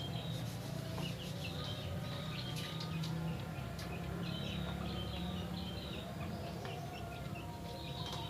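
Chickens and small birds calling: many short, high chirps repeating throughout, with a few clucks, over a steady low hum.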